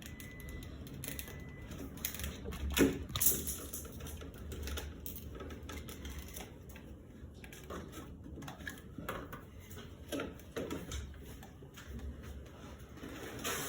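Irregular light clicks and taps of plastic parts being handled, from the refrigerator's removed control panel board and its clip-together plastic housing. The louder clicks come about three seconds in.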